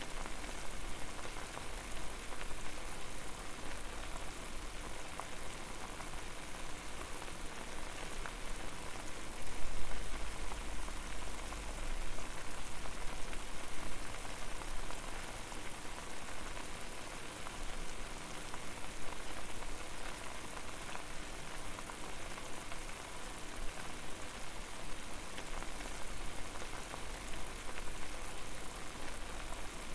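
Water boiling hard over a fire: a steady, dense bubbling and popping. A low rumble swells briefly about ten seconds in.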